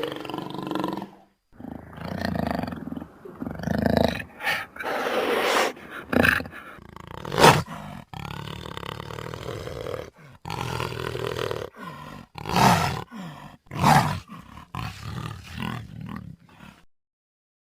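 A big cat roaring and growling in a string of calls broken by short pauses. The calls stop shortly before the end.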